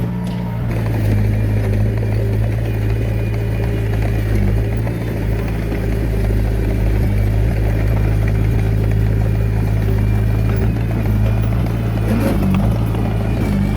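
Komatsu D21A mini bulldozer's diesel engine running steadily under work.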